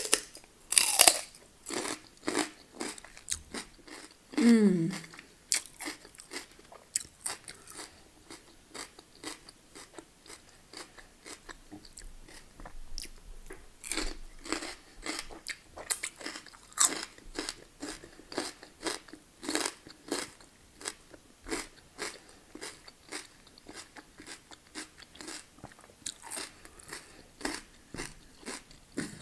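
Close-up chewing and biting of crunchy raw celery sticks, with irregular crisp crunches throughout. A short hum falling in pitch comes about four seconds in.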